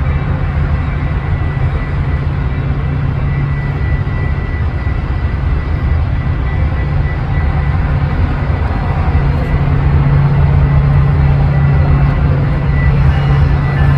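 A train running past or nearby: a steady low rumble with a continuous hum, getting somewhat louder about two-thirds of the way through.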